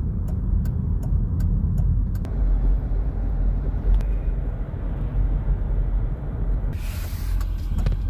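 Steady low rumble of an idling vehicle waiting at the drawbridge. A quick regular ticking, about three a second, runs for the first two seconds, and a short hiss comes about seven seconds in.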